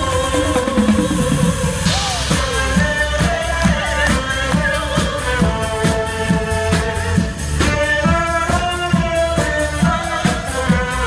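Loud band music from a live theme-park street show: a steady drum beat under a melody, with singing in places.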